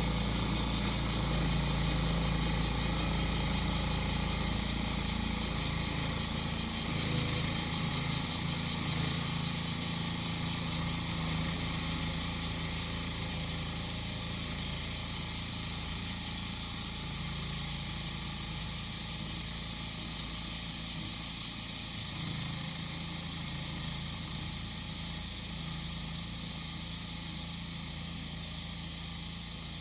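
Small engine of a grass-cutting mower running steadily at a low, even pitch, growing gradually fainter, with cicadas buzzing in a high, pulsing chorus over it.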